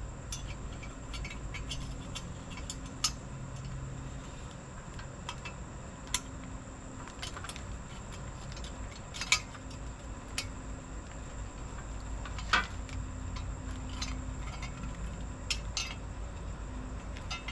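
Scattered metallic clinks and taps of motorcycle exhaust parts and tools being handled, with about half a dozen sharper clanks a few seconds apart.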